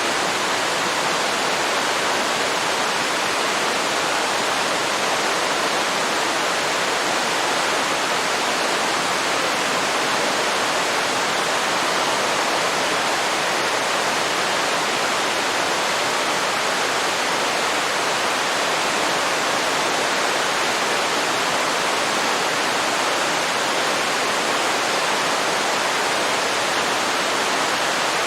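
Waterfall pouring steadily into a river: an even, unbroken rush of falling water.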